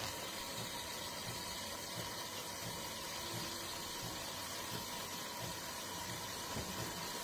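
De'Longhi Rivelia bean-to-cup espresso machine running with a steady mechanical hum as it prepares a latte.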